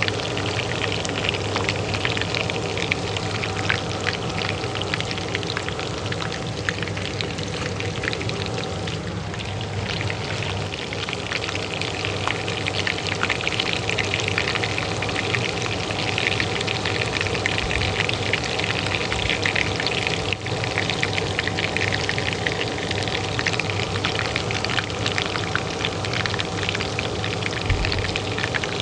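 Oil frying in a pan with a dense, steady crackle, over the steady hum of a kitchen range hood fan.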